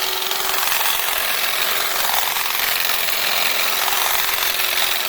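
Handheld 2-in-1 hedge trimmer fitted as grass shears, running steadily with a constant hum as its cutting blades buzz through grass.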